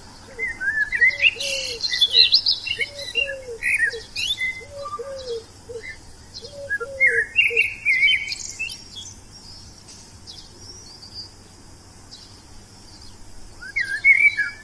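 Birds chirping: many quick, rising and falling high chirps, with a series of lower, arched calls repeated in short groups during the first eight seconds. A further burst of chirps comes near the end.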